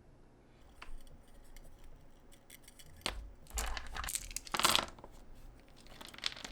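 Handling noise of craft materials being worked by hand: a few light clicks, then about two seconds of scratchy tearing and rustling, with a shorter burst near the end.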